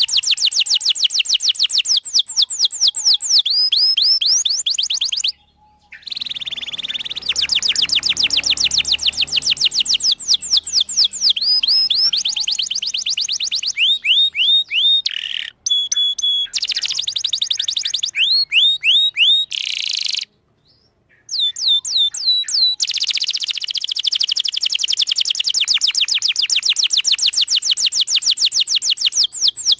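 Canary singing a long song of rapid trills: runs of quick, high, repeated falling notes, about ten a second, with brief changes of tour between them. The song breaks off twice for about a second.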